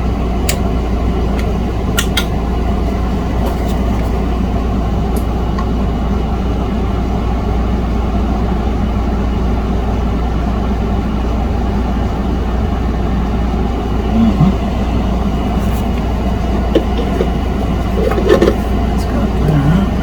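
Steady rushing noise with a deep hum underneath, like a fan or blower running, with a few light clicks near the start.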